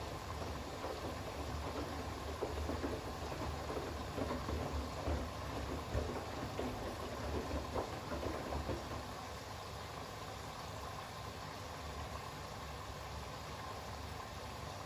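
Bosch WAX32GH1 front-loading washing machine in its rinse: the drum turns a load of towels through the rinse water, sloshing and splashing over a low motor hum. About nine seconds in, the sloshing stops and only a steadier, quieter hum remains.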